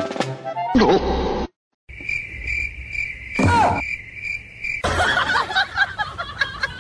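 Cricket chirping: a steady high trill pulsing about three times a second for about three seconds, used as the comic 'awkward silence' sound. It gives way to mixed voices and clatter near the end.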